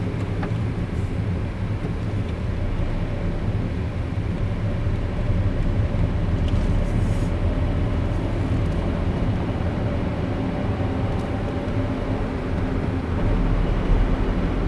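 A car driving on a city road: a steady low rumble of tyre, road and engine noise, with a faint whine in the middle. The rumble grows a little louder near the end.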